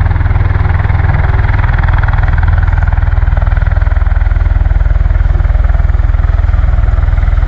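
Marine Corps V-22 Osprey tiltrotors running loud and steady, a deep rumble with a fast, even beat from the proprotors.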